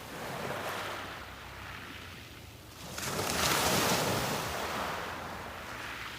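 Sea waves breaking on a beach: a small wash about half a second in, then a larger wave breaking about three seconds in and slowly washing back out.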